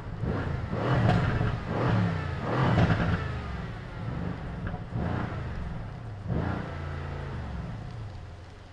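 Mercedes-AMG C63's 4-litre twin-turbo V8 revved several times while stationary, with its performance exhaust open. The revs rise and fall in quick blips over the first three seconds, then two more come later, and it settles back toward idle near the end.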